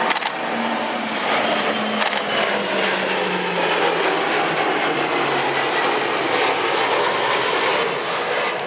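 Boeing P-8 Poseidon's twin turbofan jet engines heard as it flies past, a loud steady rush whose low tone slowly falls in pitch. Two camera shutter clicks sound, one at the very start and one about two seconds in.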